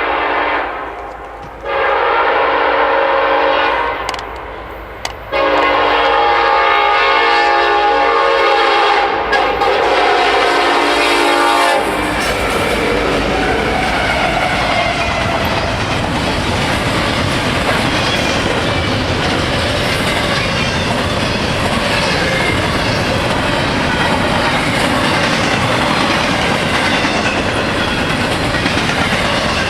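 Locomotive air horn sounding a long, a long, a short and a final long blast, the grade-crossing signal, ending about twelve seconds in. The train then rolls past with a steady rumble of wheels and rails and clickety-clack of the cars.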